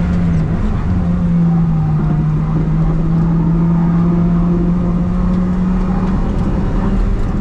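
Mazda MX-5's NB 1.8-litre VVT four-cylinder engine running hard on track, heard from the driver's seat. The engine note dips briefly about half a second in, holds steady, and climbs again near the end.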